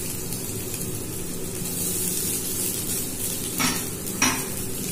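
Grated vegetables and soybean sizzling steadily in hot oil in a steel kadai as they start to fry, with two short knocks near the end.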